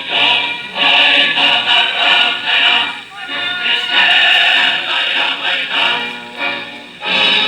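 Music with a choir singing long held notes, dipping briefly about three seconds in and again near the end.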